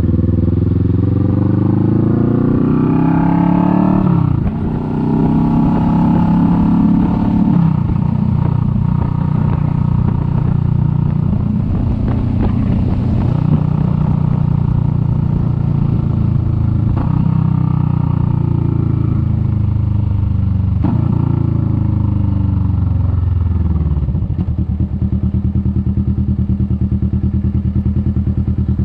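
Kawasaki Vulcan S 650's parallel-twin engine pulling up through the revs, with a gear change about four seconds in, then running steadily at cruising speed. Near the end the revs fall away and it settles into a low, even pulsing beat.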